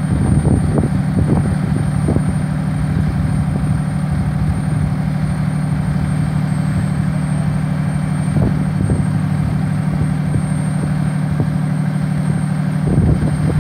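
Ladder truck's diesel engine running steadily with a deep, even hum, kept running to power the aerial ladder. A few short knocks come through about a second in, around the middle and near the end.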